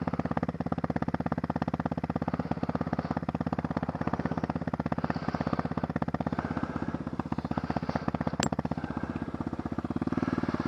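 Apollo dirt bike engine idling steadily, its even firing pulse unchanged throughout. A single sharp click sounds about eight seconds in.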